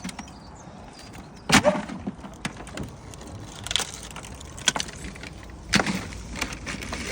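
Sharp cracks and knocks of old wall-panel material being broken and prised off, about four separate cracks with the loudest a second and a half in.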